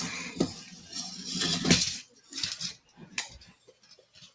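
Rustling and a few light clicks and knocks as something is handled for measuring, thinning out to scattered faint taps about halfway through.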